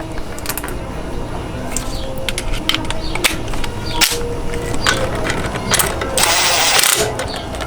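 Scattered metallic clicks and clinks of hand tools and parts at a scooter's rear axle nut, with a short run of rapid ratchet clicking near the end.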